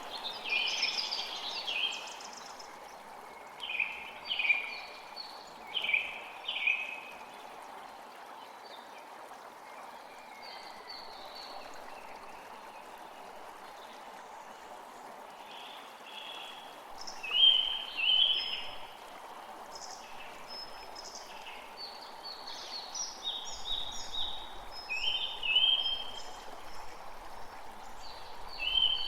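A stream flowing steadily under birdsong: birds sing short, repeated high calls in bursts, loudest a little after the start, around four to seven seconds in, and about seventeen to eighteen seconds in.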